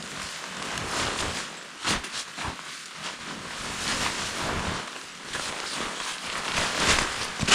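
Rustling and crinkling of tent fabric being handled, with a few sharp clicks and knocks.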